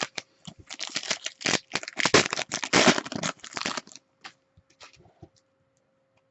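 Rapid crackly rustling and clicks of trading cards and their plastic holders being handled and sorted, busiest for about four seconds, then a few scattered clicks.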